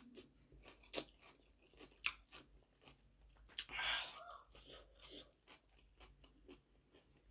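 A person chewing raw cucumber slices: soft crunches and wet mouth clicks, with a louder crunch about four seconds in.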